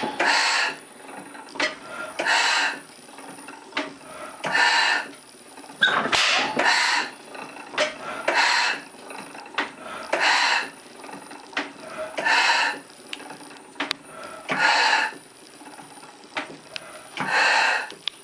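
A circa 1880–1890 Otto-type slide-valve four-stroke gas engine of 2 hp running slowly: a loud burst about every two seconds, with lighter mechanical clicks between the bursts.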